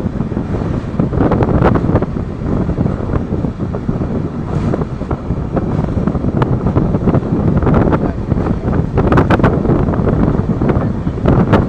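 Rumble of a moving train heard from on board, with heavy wind buffeting the microphone and a few sharp knocks, the clearest near the end.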